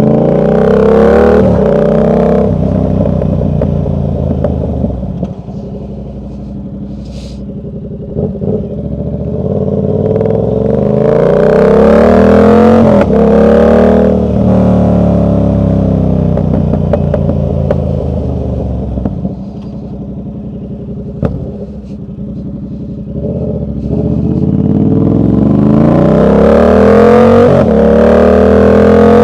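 Motorcycle engine accelerating through the gears: the pitch climbs, drops at each shift and climbs again, loudest near the start, from about 10 to 15 seconds and over the last five seconds, with quieter, slower running in between.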